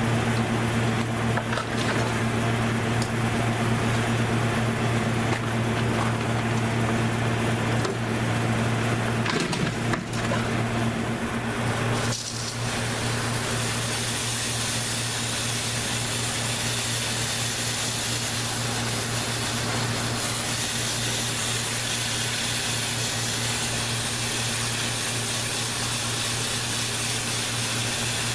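A motor hums steadily under a broad hiss. About twelve seconds in the hum briefly dips and the hiss becomes brighter and stronger, like water or cleaner spraying.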